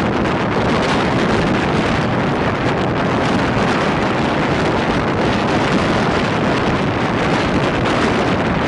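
Steady rushing noise of a passenger train running at speed, with wind buffeting the microphone.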